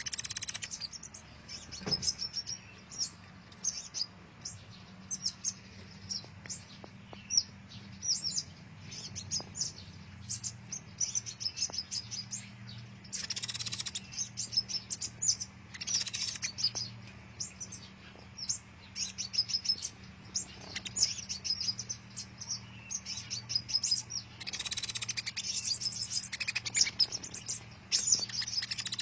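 Sunbirds calling busily: rapid, high, thin chirps and twitters, many overlapping, with a few harsher noisier bursts among them.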